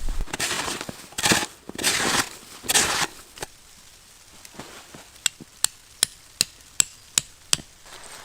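Four rough, scraping or crunching noises in the first three seconds, then seven sharp, evenly spaced knocks, about two to three a second, like a tool striking something hard.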